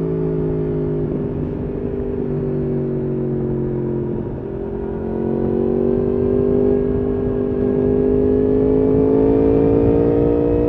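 Yamaha R1's crossplane inline-four engine through an Akrapovič exhaust, heard from the rider's seat. The engine note eases down slightly for about four seconds, then rises steadily as the bike accelerates in one gear.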